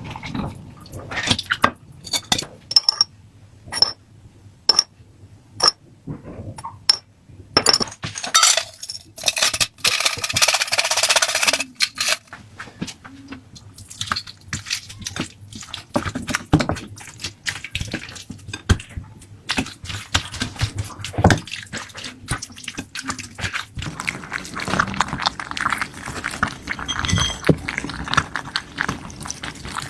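Cat food being prepared in a kitchen: a run of separate clinks and knocks of utensils against dishes, a few seconds of steady rushing noise a third of the way in, then continuous crackling and rustling of handling.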